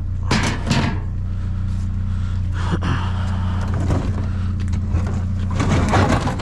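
A vehicle engine idling steadily, with several knocks and scraping clatters from a dishwasher being handled and moved, the last run of clatter near the end.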